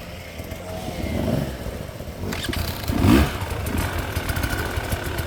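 Enduro dirt bike engine revving up and down in short bursts over a steady low rumble, with the loudest rev about three seconds in.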